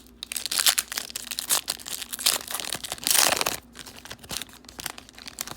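Plastic wrapper of a 2019 Donruss football card pack crinkling and being torn open, with a louder, longer stretch of tearing about three seconds in.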